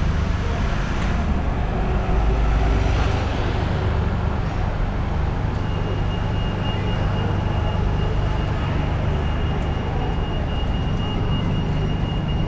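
Street traffic ambience: a steady low engine rumble from passing road vehicles, with a thin steady high whine joining about six seconds in.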